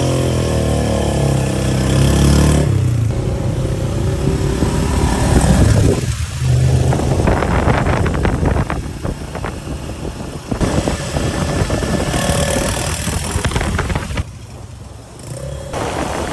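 Yamaha Jupiter MX 135 motorcycle's single-cylinder four-stroke engine running and revving, in several short clips that change abruptly.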